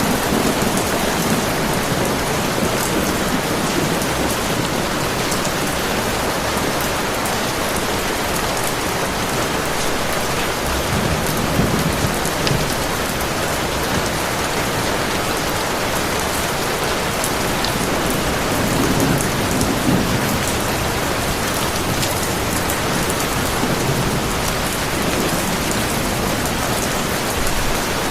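Heavy, steady rain pouring onto a surface. Low rumbles of distant thunder swell up twice, about eleven seconds in and again near twenty seconds.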